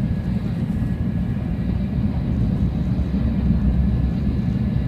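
Steady low rumble of a Shinkansen bullet train running, heard inside the passenger car.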